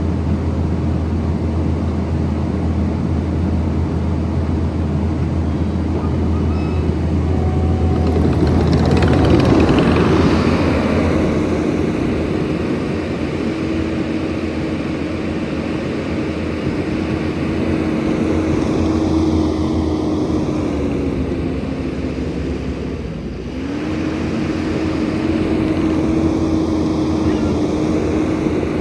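Skid steer with a forestry mulcher head running steadily. A louder, harsher stretch comes about nine seconds in, and about two-thirds of the way through the whine sags briefly and then climbs back up.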